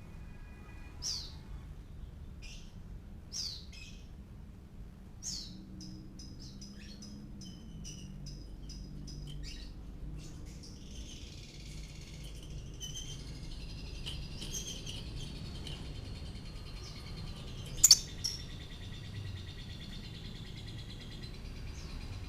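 Lovebird chirping: a few separate sharp downward chirps, then from about six seconds in a fast high chattering that turns into a continuous high warbling song. A sharp click is heard near the end.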